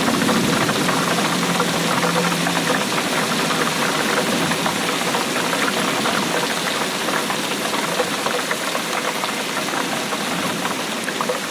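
Steady rainfall: a dense, even patter of many drops.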